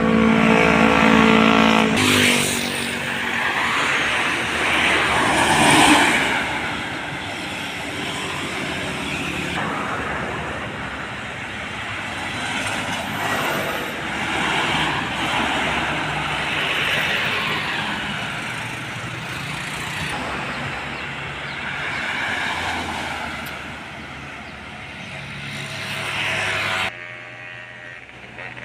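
Heavy trucks and buses passing close by on a road, engine and tyre noise swelling and fading as each goes past. A steady engine tone fills the first two seconds and breaks off suddenly.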